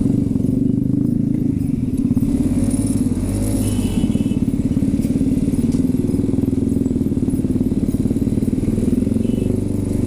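Motorcycle engine running steadily while riding, heard from the rider's own bike with a low, even pulsing throughout.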